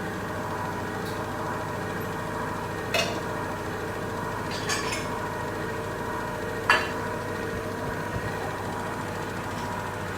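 Neff washing machine running with a steady hum of several tones, broken by a few sharp clinks about three, five and seven seconds in.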